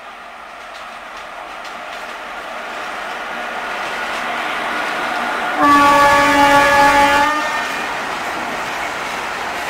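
Freight train hauled by two Indian Railways electric locomotives running past, its rumble growing steadily louder as it nears. About halfway through, the locomotive's air horn sounds one steady blast of nearly two seconds, the loudest thing heard, and the train's running noise goes on after it.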